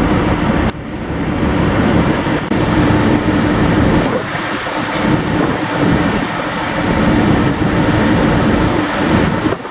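Wind buffeting the microphone on a moving ferry's deck, with a steady low hum beneath it.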